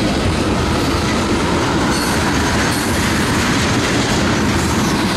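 Freight train of tank cars and covered hopper cars rolling past at close range: a steady, loud noise of steel wheels running on the rails.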